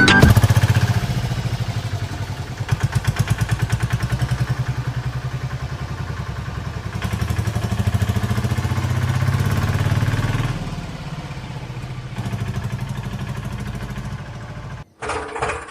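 Small engine running with a fast, even chugging. It swells for a few seconds past the middle, then eases off. Near the end it cuts abruptly to a different, slower pulsing sound.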